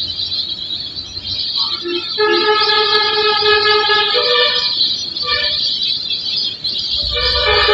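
A horn, probably on a vehicle, sounds in long steady blasts that switch between two pitches, with short gaps between them. A constant high-pitched hiss runs underneath.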